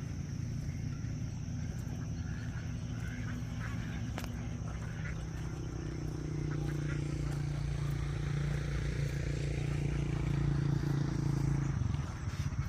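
An engine running with a steady low hum that grows louder in the second half and drops off suddenly near the end.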